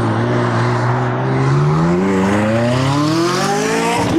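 Loud-exhaust sports car accelerating: the engine's note holds steady, then climbs for a couple of seconds as it revs up through the gear, dropping sharply at an upshift near the end.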